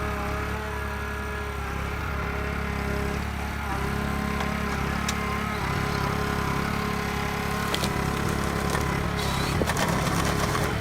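Heavy forestry machine's diesel engine running steadily under load, with a few sharp knocks of working gear about halfway through and near the end.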